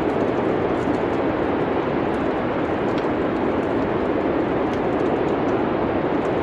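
A steady, even rushing noise like wind, with faint, scattered crackles of a wood fire.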